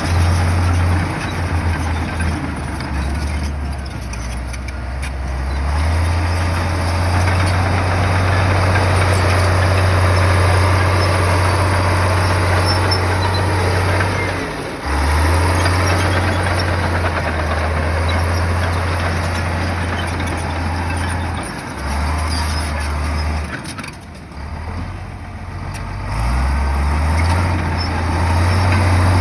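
Heavy earthmoving machine's diesel engine working, a loud low drone that steps up and down in pitch as the load changes, easing off briefly about halfway through and again for a couple of seconds past three quarters.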